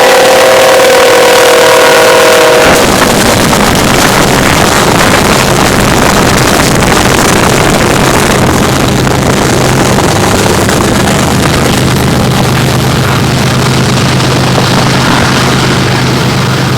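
Union Pacific diesel locomotive's air horn sounding a steady chord, cutting off about three seconds in, then the loud continuous noise of the manifest freight train passing, with a steady low engine drone underneath in the second half.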